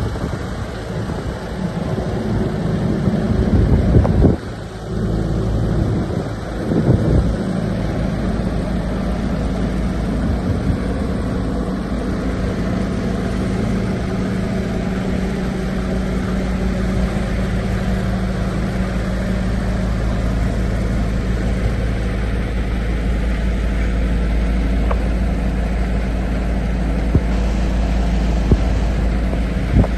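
The MAN truck's D2066 six-cylinder diesel engine idling steadily. Wind buffets the microphone in gusts during the first several seconds.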